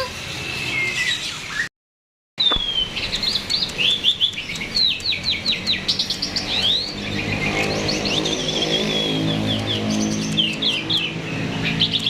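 Jalak (starling) in full song: a dense run of rapid, high chirps and whistled phrases with barely a pause, broken by a brief dropout about two seconds in. A low drone sits underneath from about the middle on.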